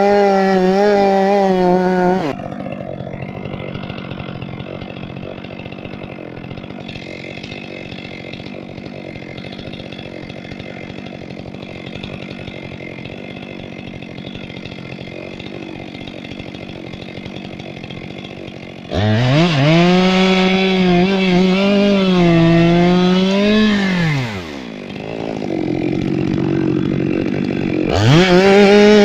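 Two-stroke chainsaw at high revs cutting wood. It drops to a much quieter running after about two seconds. About 19 s in it revs hard again, the pitch wavering for some five seconds before falling away, and it revs up once more near the end.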